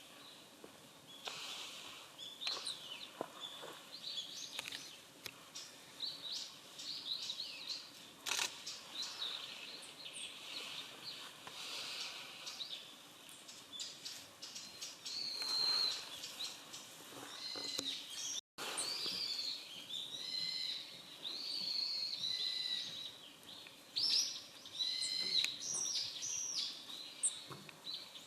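A flock of rustic buntings giving short, high chirping calls, growing denser and overlapping in the second half, with a few brief clicks. The sound cuts out for an instant about two-thirds of the way through.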